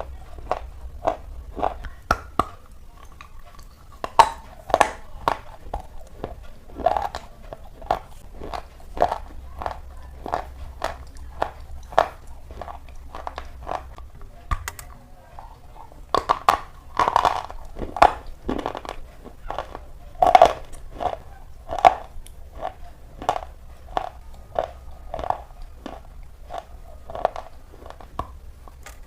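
Slate pencils being bitten and chewed close to the microphone: a steady run of sharp, dry crunches at about two a second, a few of them louder.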